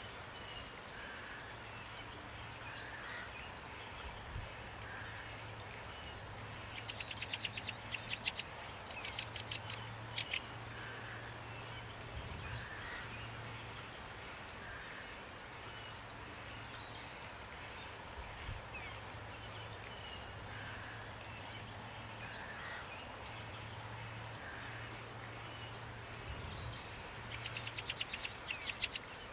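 Songbirds calling and singing over steady rain, with a rapid trill twice, about a third of the way in and again near the end. A faint low hum comes and goes underneath.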